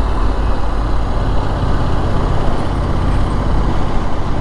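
Triumph Street Scrambler's 900 cc parallel-twin engine running at steady riding speed, with wind and road noise on the rider's camera microphone. A slightly higher engine note joins about a second in.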